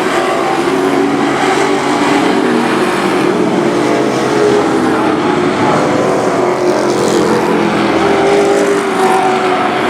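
Several race truck engines running together at racing speed on a short oval track, their pitches overlapping and shifting as the pack goes around.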